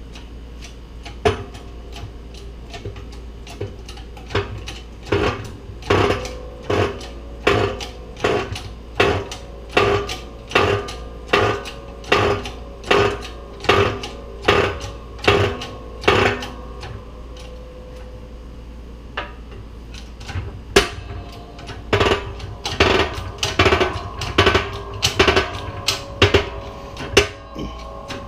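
Shop press pressing the inner pinion bearing onto a differential pinion shaft: rhythmic metallic clacks with a short ring, about two a second, in two runs with a pause of a few seconds between, as the bearing is driven on until it seats.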